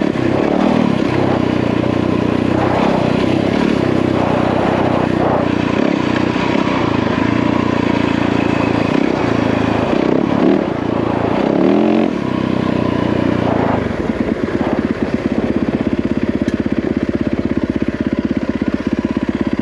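Yamaha WR450F's single-cylinder four-stroke engine running as the dirt bike is ridden, its revs rising and falling. About fourteen seconds in it drops to a steady idle.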